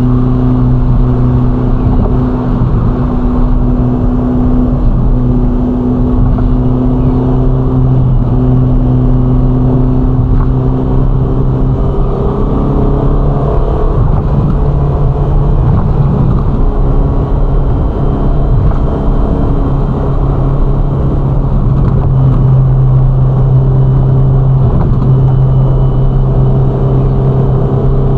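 Ferrari Roma's twin-turbo V8 running at steady cruising revs, with tyre and road noise beneath it. Its note shifts and wavers in the middle, then settles back into a steady drone.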